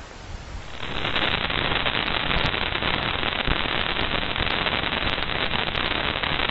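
Dense, steady crackling static with fine clicks, starting about a second in: spacecraft radio and plasma-wave data played back as sound, presented as a solar storm.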